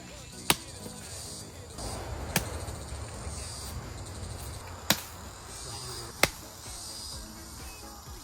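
Four sharp strikes of a digging tool chopping into earth and roots, spaced one and a half to two and a half seconds apart. Insects buzz faintly behind them.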